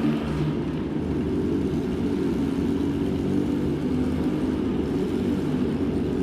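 Steady low droning rumble, with several held low tones that shift in pitch every second or so.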